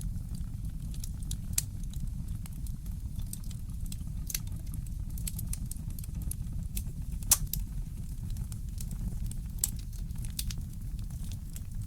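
Wood fire crackling in a fireplace: scattered small pops and snaps over a steady low rumble, with a few louder pops, the sharpest about seven seconds in.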